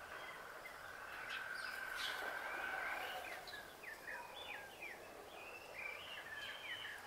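Small birds chirping in quick, short calls over a faint, steady outdoor hiss, with one long, even note held in the first few seconds.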